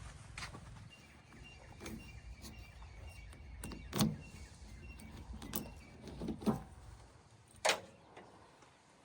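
Diesel engine of earth-moving machinery running low and steady, with several sharp clunks and knocks at irregular intervals; the engine rumble drops away about seven seconds in.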